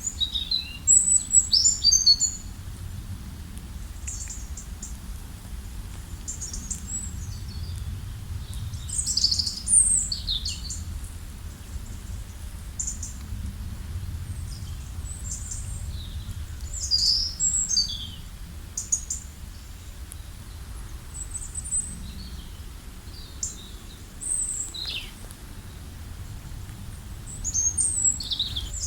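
Birds chirping and calling in short, high-pitched phrases and quick falling notes, coming in clusters every few seconds, over a steady low rumble.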